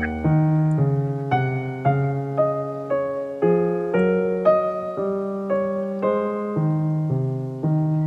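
Soft background piano music: gentle notes and chords, a new one struck about every half second and fading away after each.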